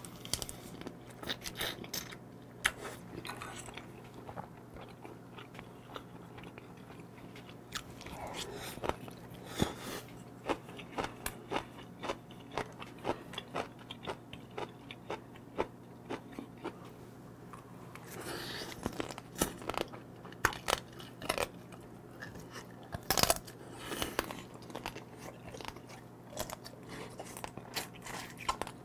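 Chewing and crunching a mouthful of raw soy-marinated flower crab (instant ganjang gejang), with many short crisp crunches.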